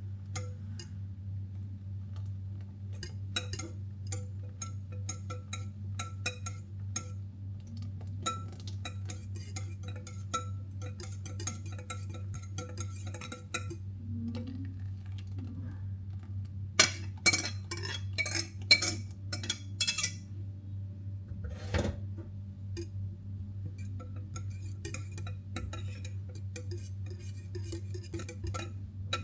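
A metal utensil repeatedly clinks and taps against a bowl while cake batter is mixed, with a louder, denser run of clinks partway through and a single knock soon after, over a steady low hum.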